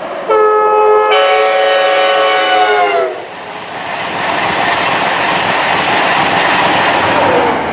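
A passing train sounding a two-tone horn: one note first, the second joining about a second in, both dropping in pitch as the train goes by. Then the loud rush of the train running past at speed.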